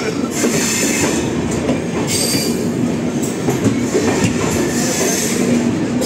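Passenger trains running at speed on parallel tracks, heard from an open coach door: a steady wheel-on-rail rumble with rapid clacks over the rail joints and a faint high wheel squeal coming and going.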